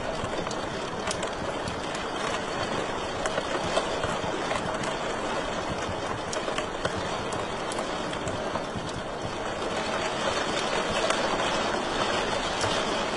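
Fireplace fire burning steadily with a rushing hiss, with many small crackles and pops scattered through it.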